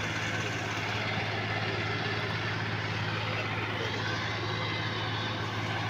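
Tractor diesel engine running steadily while pulling to tow a tractor stuck in the mud.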